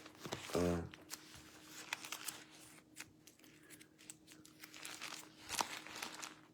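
Bible pages being leafed through and rustled, with irregular crackling page noises, and a brief murmur from the reader about half a second in.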